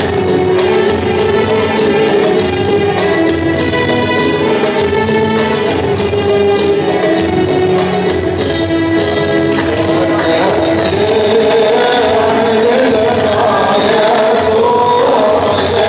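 Music of an Arabic Christian hymn: held melodic tones over percussion, with a regular high ticking beat and a wavering melody line coming in about ten seconds in.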